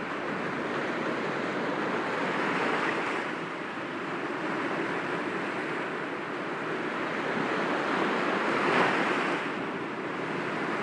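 Sea waves breaking gently against rocks: a continuous wash of surf that swells about two seconds in and again, more strongly, near the end.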